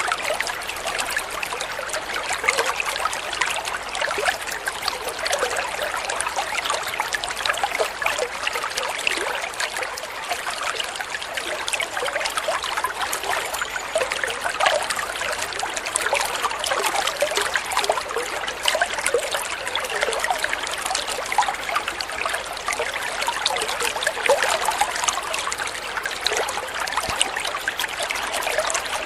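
Water flowing and trickling steadily, a continuous splashy babble with many small bright droplet sounds.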